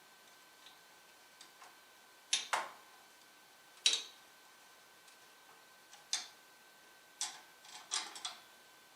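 Irregular sharp clicks and taps, about eight of them, the loudest a double click a little over two seconds in and a single one near four seconds, over a faint steady high tone.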